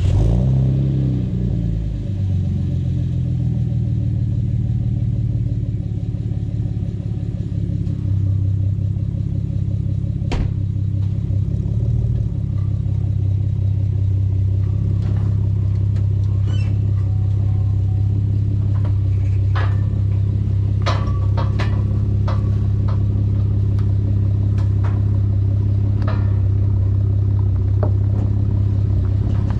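2011 Chevrolet Camaro's 3.6 L V6 cranking and catching, flaring briefly, then settling into a steady idle. Scattered short knocks sound over the idle from about ten seconds in.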